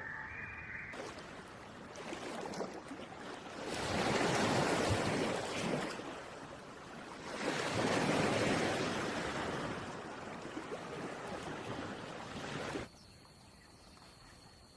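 Surf: waves rushing in, swelling loudly twice. Near the end it cuts off abruptly to a quieter background with a faint steady high-pitched tone.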